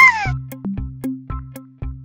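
Light children's background music with evenly spaced plucked notes and a low bass line. At the very start, the tail of a loud meow-like sound effect falls away and is gone within about a third of a second.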